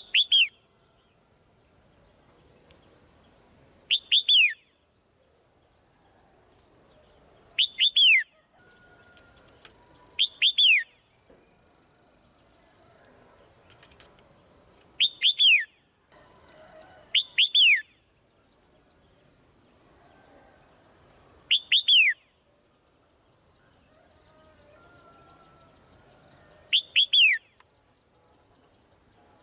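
Swallow calls: short falling chirps in clusters of two or three, repeating eight times, every few seconds, over a steady high hiss.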